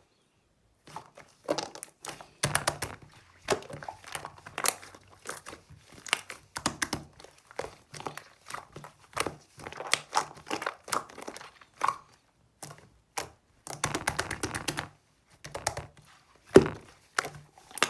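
Pink slime squished and pressed by hand, giving dense, irregular clicking and crackling, with a few longer squishing stretches.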